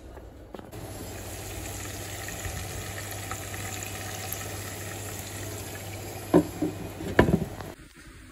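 Chopped onions sizzling steadily in hot oil in a frying pan, with a few sharp knocks near the end.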